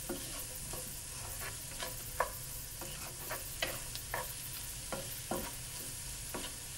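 Sliced mushrooms sizzling in a frying pan as they are stirred with a spatula. Irregular scrapes and taps of the spatula against the pan sound over a steady sizzle.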